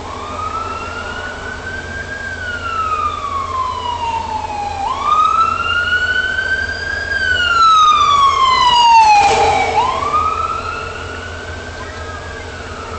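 Emergency vehicle siren on a slow wail, its pitch rising and falling about once every five seconds, growing louder toward the middle and then easing off.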